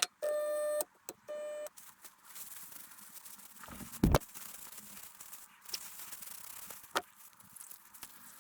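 Two short electronic beeps, the first slightly longer, followed by a high hiss and a couple of sharp knocks and clicks of parts being handled.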